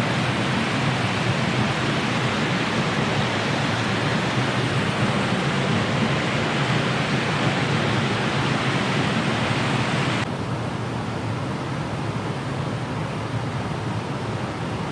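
Rushing water of a mountain stream, a loud steady hiss. About ten seconds in it abruptly turns quieter and duller.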